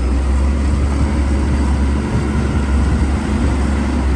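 Diesel engine of heavy earthmoving equipment running steadily with a deep, low sound.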